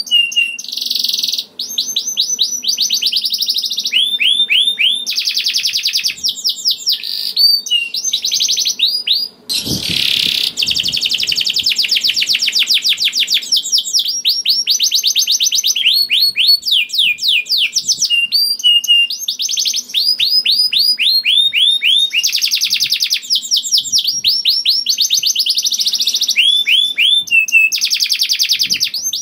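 Domestic canary singing a long, continuous song of fast high-pitched rolls and trills, each roll a rapid run of repeated notes, with brief pauses between phrases. A short rustling burst comes about ten seconds in.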